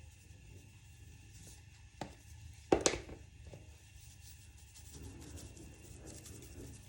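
Cookware being handled: a single knock about two seconds in, then a louder clatter of two or three quick strikes, over a low steady hum.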